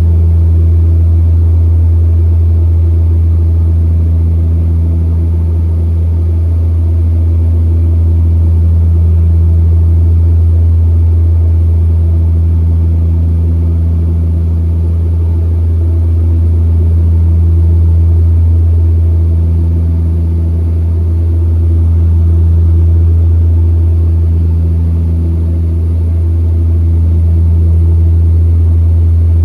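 The Twin Otter's two Pratt & Whitney PT6A-27 turboprops and propellers droning steadily, heard from inside the cabin. A deep, constant hum carries a higher tone that comes and goes every couple of seconds, and the overall loudness swells and eases slowly.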